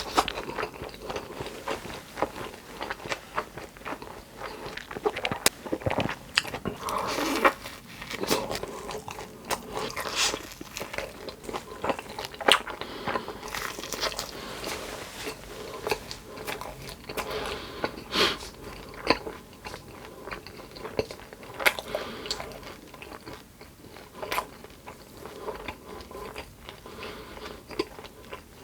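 A person biting and chewing crunchy food close to the microphone, with repeated sharp crunches.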